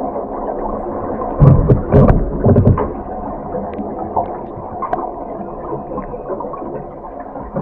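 Underwater recording of scuba exhaust bubbles gurgling steadily, with three loud bursts of exhaled air between about one and a half and three seconds in, as when a diver puffs out bubble rings.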